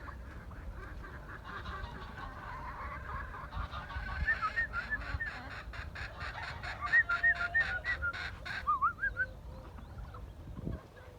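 Domestic fowl calling: a run of short, arched honking calls, several a second, from about four to nine seconds in, over a low rumble.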